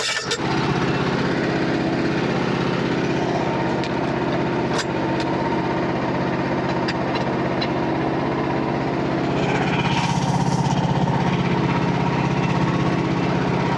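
Frontier OS27 portable sawmill's engine running steadily, with a few light knocks about five seconds in and a slight rise in level around ten seconds.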